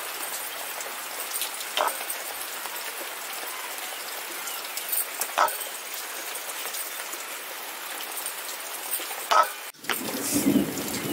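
Steady rain falling, an even hiss, with a few short yelps from a dog a few seconds apart. Near the end the sound changes abruptly to a louder, rougher rustle.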